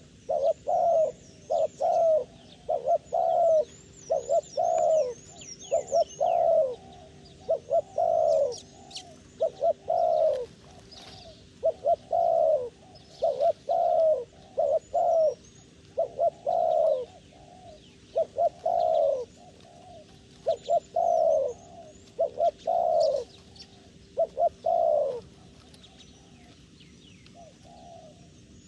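Doves cooing over and over in short repeated phrases, with a few brief pauses, while small birds chirp high and thin, mostly in the first few seconds.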